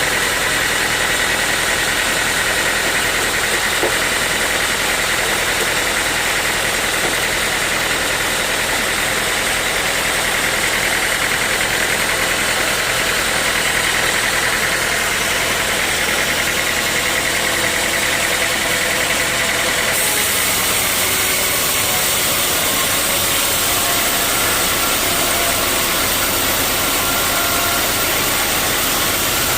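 Sawmill machinery running steadily, a continuous engine-driven drone with a high whine on top; the whine fades and the sound shifts in tone about twenty seconds in.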